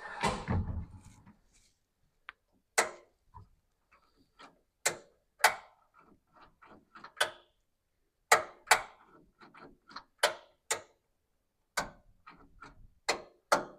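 Rustling and scraping for a moment, then about a dozen sharp metallic clicks and light knocks at uneven intervals.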